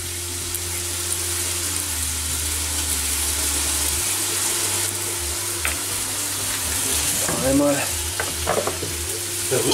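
Diced chicken and onion frying in oil in a hot stainless steel pot: a steady sizzle.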